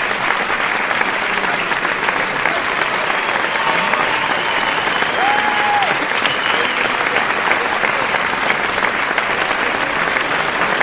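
Large crowd applauding: continuous dense clapping at an even level, with a few faint voices calling out in the crowd.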